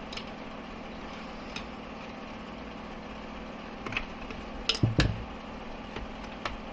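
Metal clicks and a clunk from the fifth-gear synchronizer sleeve of a DYMOS gearbox output shaft being slid into and out of engagement, the loudest pair about five seconds in, over a steady hum.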